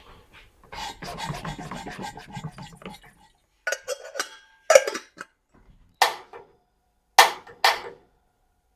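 Clattering of small hard objects for about two seconds, then five separate sharp knocks over the next few seconds.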